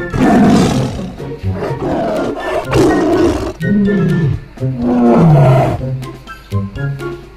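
Tiger roaring and growling, about five loud calls in a row with sliding pitch, over light plucked-string background music.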